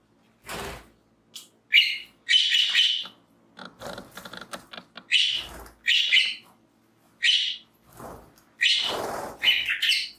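Budgies chirping in short, repeated bursts, with a few broad noisy swishes among the calls.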